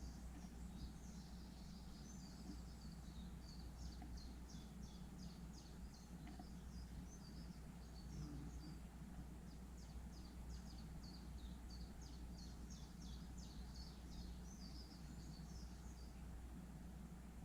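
Small garden birds chirping faintly in a long run of rapid, short high notes that stops about sixteen seconds in, over a steady low background rumble.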